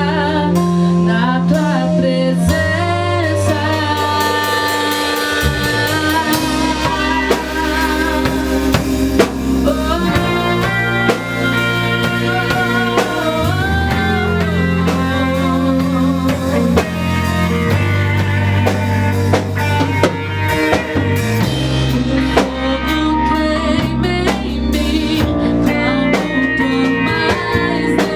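Live gospel worship band playing a song, with drum kit, guitar and keyboard; a melody line wavers in pitch over steady low notes.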